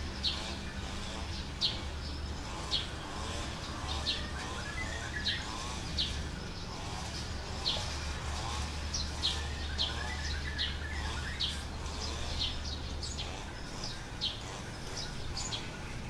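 Birds calling: a short, sharp high note repeats about once a second over softer warbling calls, with a steady low hum underneath that stops near the end.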